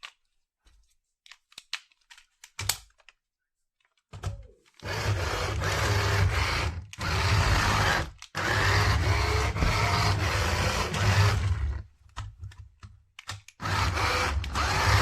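Light plastic clicks, then a small electric motor of a radio-control toy running in two long spells of several seconds each, with a steady whir and a strong low hum.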